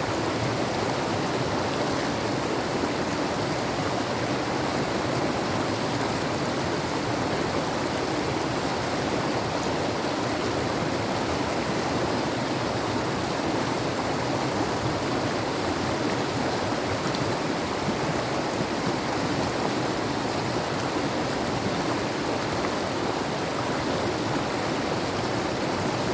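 Mountain river rushing, a steady, even noise.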